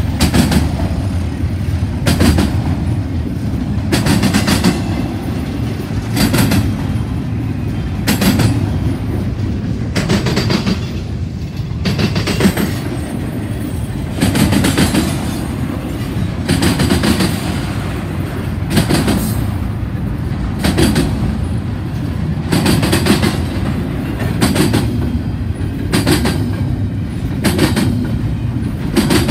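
Double-stack intermodal well cars rolling past: a steady low rumble of wheels on rail, with a sharp clack of steel wheels about every one to two seconds as each set of trucks goes by.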